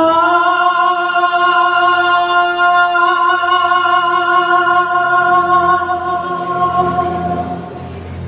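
A singer holding one long, steady note for about seven and a half seconds over the song's backing music; it comes in suddenly and fades away near the end.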